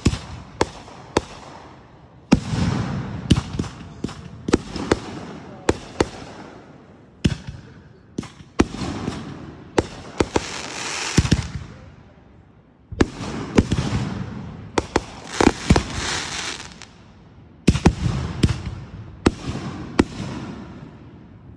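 Fireworks going off: a long run of sharp bangs, some in quick clusters, with several stretches of dense crackling between them.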